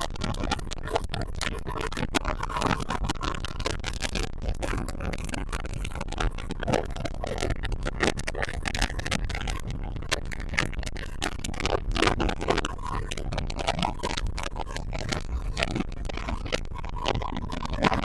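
Blue Wave 220 Classic boat running underway: wind buffeting the microphone in irregular gusts over a steady low rumble of the engine and water against the hull.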